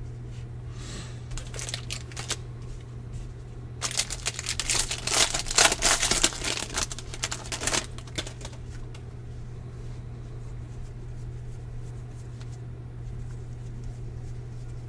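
Trading card pack wrapper crinkling and cards being handled, with a dense burst of crinkling and crackling from about four to eight seconds in, over a steady low hum.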